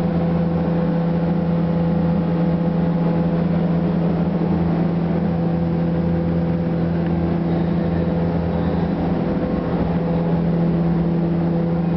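Paint booth exhaust fan running steadily after spraying, drawing out the paint fumes: an even, unchanging mechanical hum with a low drone.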